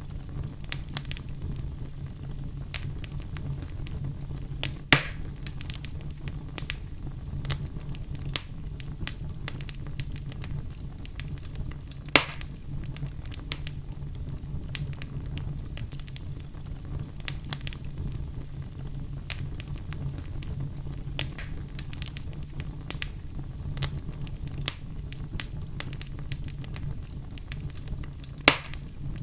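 Fire in a fireplace burning with a steady low rumble and frequent small crackles, with three louder pops spread through it.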